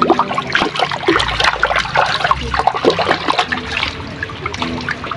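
Water splashing and trickling irregularly as a muddy toy is washed by hand in clean water.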